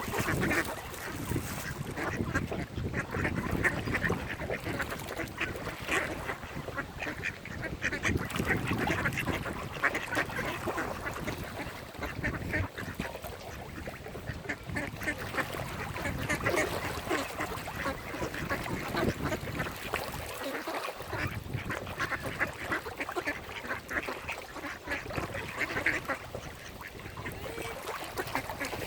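Mallard ducks quacking, many short calls overlapping one another without a break.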